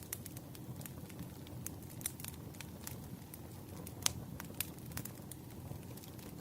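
Wood fire burning, with irregular sharp crackles and pops over a low steady rush of flame; one louder pop about four seconds in.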